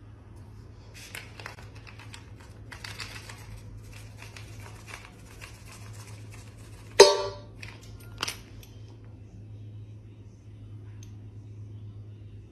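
Scattered small clicks and rustles over a steady low hum, then a sudden loud clatter with a brief ring about seven seconds in, and a smaller knock about a second later.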